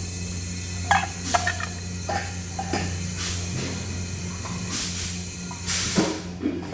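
TIG welding machine humming steadily, with hissing bursts and a few small metallic clinks.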